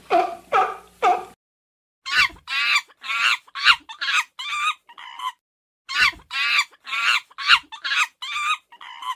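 A chicken clucking and squawking in a run of short calls, about two a second, in two bouts with a pause between. At the start, a different series of animal calls cuts off abruptly about a second in.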